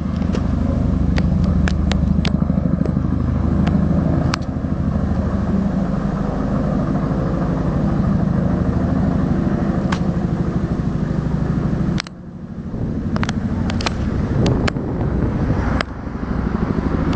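An engine running steadily with a dense low hum, dropping off briefly about twelve seconds in, with scattered sharp clicks over it.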